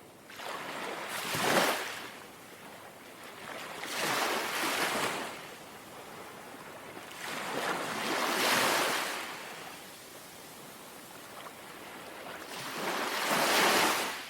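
Small, gentle sea waves lapping and washing onto the shore, four surges rising and falling a few seconds apart with a softer wash in between.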